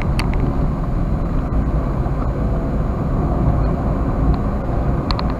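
Toyota Wigo driving along: steady low engine and road rumble from the moving car.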